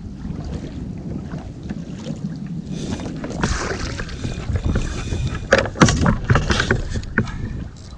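Wind buffeting the microphone over water noise around a kayak at sea, with a cluster of sharp splashy knocks about five and a half seconds in.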